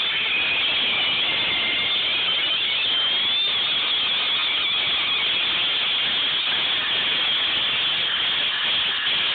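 Steady loud hissing noise with faint wavering high whistles running through it.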